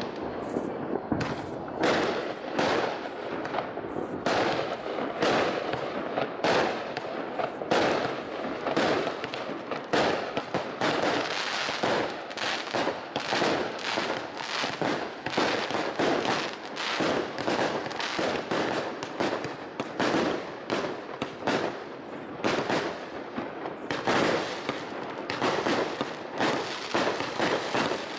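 Fireworks display firing continuously: a dense, unbroken run of bangs and crackling reports, several a second.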